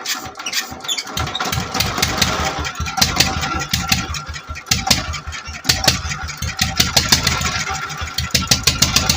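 Petter-type single-cylinder diesel engine catching about a second in, then running with a fast, even beat.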